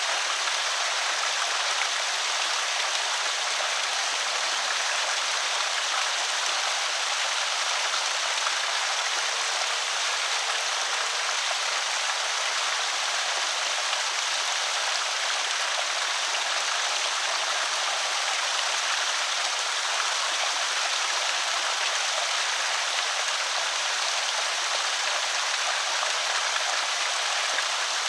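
Creek water spilling over a small spillway: a steady, even rush of splashing water.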